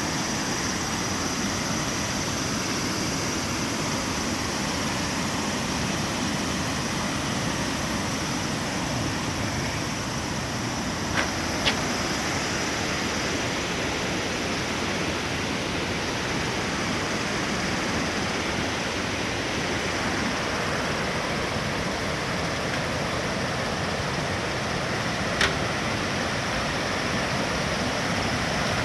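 Tsuta no Fuchi waterfall rushing steadily as an unbroken wash of falling water, swollen to a heavy flow the day after a typhoon. A few faint clicks come through it, twice about a third of the way in and once near the end.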